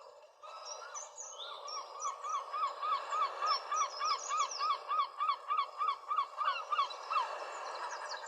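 A bird giving a fast run of about twenty identical repeated calls, roughly four a second, starting about two seconds in and stopping near the end, with other birds chirping higher above it over a steady background hiss.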